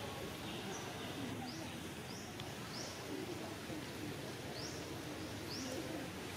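Wild birds chirping: a string of short, high calls that each sweep upward, at irregular intervals about once a second, over a low steady background murmur.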